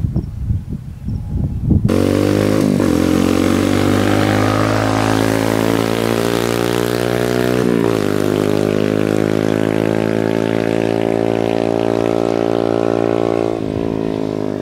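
Kasinski Mirage 150 motorcycle engine pulling hard under acceleration. It cuts in suddenly about two seconds in, after a few low thumps, and its pitch drops and climbs again at each gear change, three times in all.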